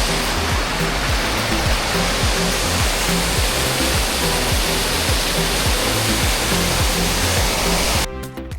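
Loud, steady rushing of a waterfall, with background music's regular low beat underneath; the water noise cuts off abruptly near the end.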